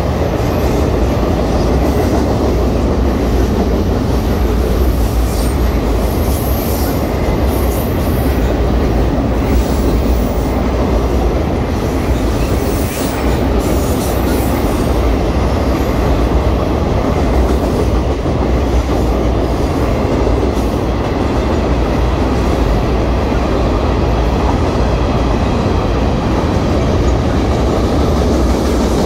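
Florida East Coast freight cars, double-stack container cars among them, rolling across a trestle bridge: a loud, steady rumble of wheels and cars on the bridge.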